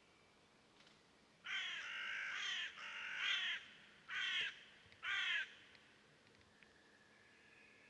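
A bird giving harsh, crow-like caws: two longer calls, then two short ones about a second apart. Faint thin whistling from other birds sits behind them.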